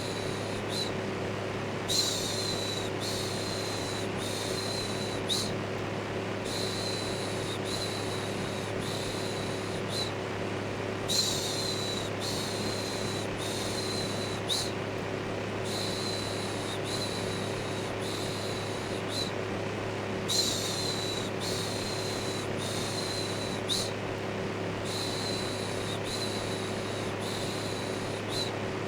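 Steady electric fan noise with a low hum, overlaid by a looped human shush ("shhh") repeating in short strokes. A louder shush comes every four to five seconds.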